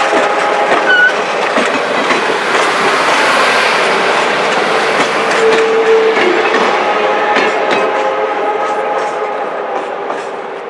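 Train rolling past close by, its wheels clicking over the rail joints with a steady rumble and a few faint held tones, easing off near the end.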